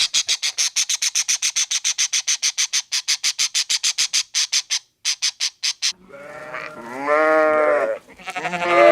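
A fast run of high, dry chirps, about eight a second, for the first six seconds, then bleating: two long wavering bleats, the second louder.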